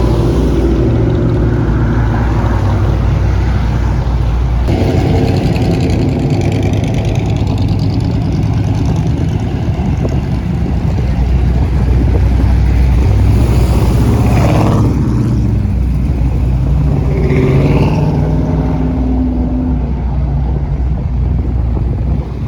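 Car engines running with a loud, steady low rumble, the sound changing abruptly about five seconds in.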